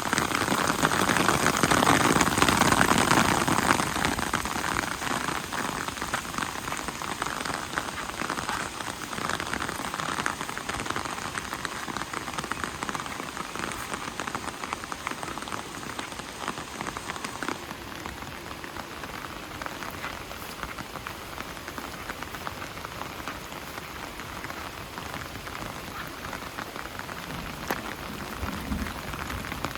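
Rain falling steadily in a dense patter, heaviest in the first few seconds and then easing slightly.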